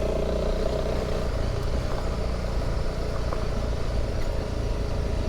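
Honda CRF300 Rally's single-cylinder engine running at a steady speed while the motorcycle is ridden, with road and wind noise.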